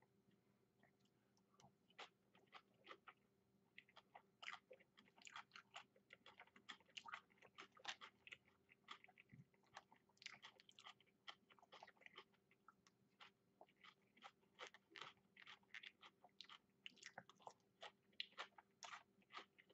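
Faint close-up chewing of takeout food, a scatter of small irregular clicks and crunches, over a faint steady hum.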